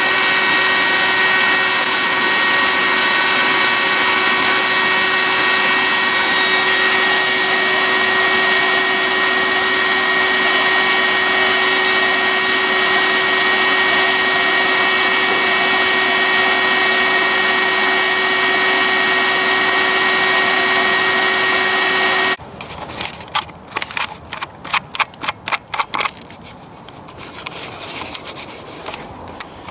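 A small electric blower feeding a makeshift barbecue forge runs with a steady whine, then cuts off suddenly about 22 seconds in. Irregular crackling follows as the hot 5160 spring-steel blade is quenched in warm oil.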